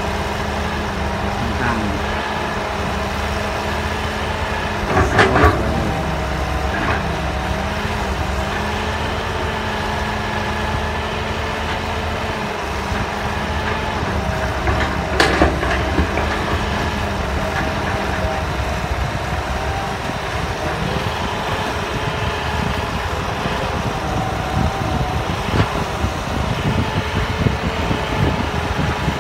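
Hydraulic excavator's diesel engine running steadily while the machine works soil, with two sharp metallic clanks about 5 and 15 seconds in.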